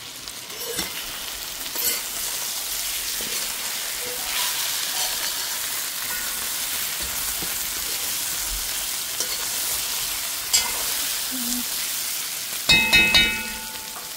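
Bunjal shrimp with green mango and okra sizzling in a metal pot with a steady hiss as it fries down, nearly done, with scattered stirring clicks. Near the end come three quick ringing metal knocks on the pot.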